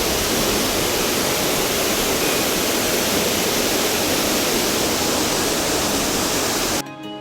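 Loud, steady rush of falling water from a monsoon-fed waterfall. It cuts off abruptly near the end, and music takes over.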